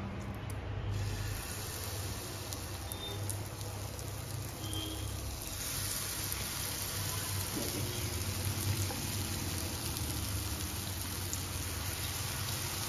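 Malpua batter sizzling as it fries in hot fat in a nonstick frying pan, ladled in a spoonful at a time. The sizzle gets louder about halfway through, as more batter goes in.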